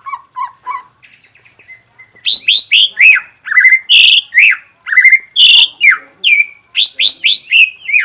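White-rumped shama (murai batu) singing. After a second of soft low notes and a quieter pause, about two seconds in it breaks into a loud, rapid run of downward-sweeping whistles broken by a few harsh, buzzy notes.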